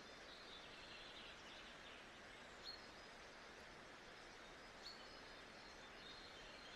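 Faint nature-sound ambience: a steady soft hiss with scattered high bird twittering and two short, sharper chirps about two seconds apart.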